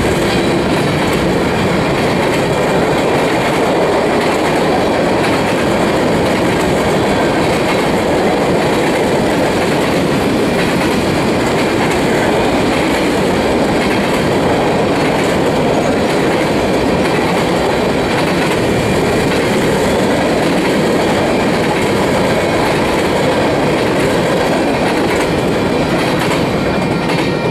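Covered hopper cars of a freight train rolling past: a steady, loud clatter of steel wheels on the rails with faint high ringing tones. The last car goes by near the end.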